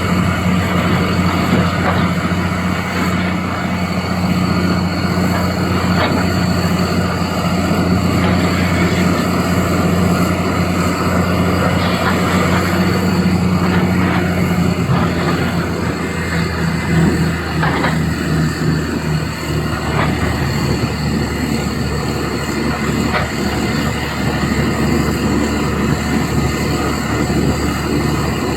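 Doosan DX390 excavator's diesel engine running steadily under work, with a few faint knocks along the way; the engine note shifts slightly about halfway through.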